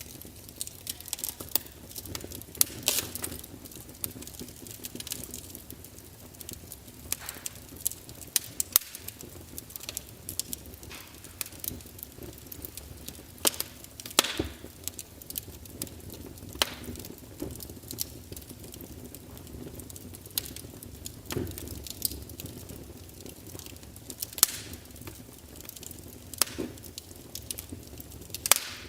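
Fire crackling, with irregular sharp pops and snaps over a low steady hiss.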